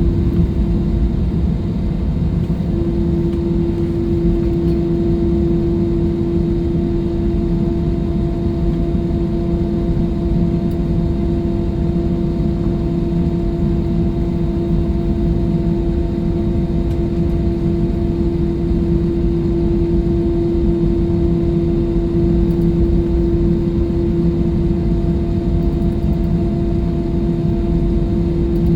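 Airliner cabin noise from inside the passenger cabin: a steady jet-engine rumble with a constant hum riding over it, which wavers briefly near the start and then holds even.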